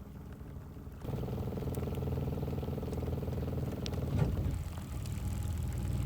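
Engine of the vehicle they are riding in, running at a steady note and heard from inside; the drone comes in abruptly about a second in.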